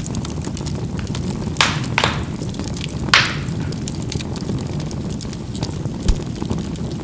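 Charcoal burning in a fireplace: a steady low rumble of the fire with three sharp crackling pops of the charcoal bursting, between about one and a half and three seconds in, the last the loudest.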